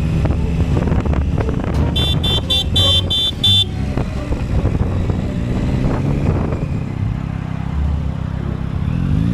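Motorcycle running on the road with a steady low rumble. About two seconds in comes a quick run of about six short, high-pitched beeps that last under two seconds.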